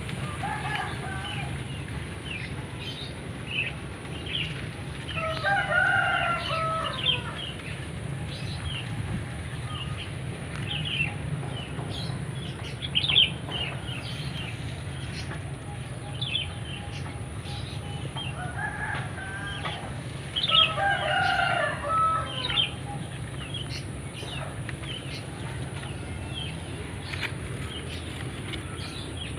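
A rooster crowing twice, about fifteen seconds apart, while small birds chirp throughout over a steady low hum.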